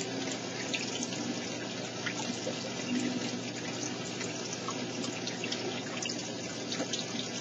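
Steady trickling, splashing water with many small droplet ticks, unchanging throughout.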